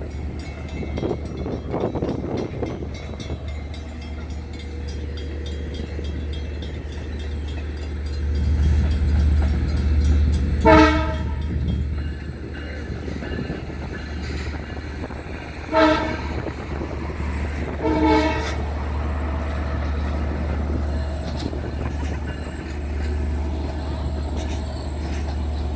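LIRR diesel-hauled double-decker passenger train rumbling low and steady as it pulls out of the station. Its horn sounds three short blasts: one about eleven seconds in, then two more a few seconds apart.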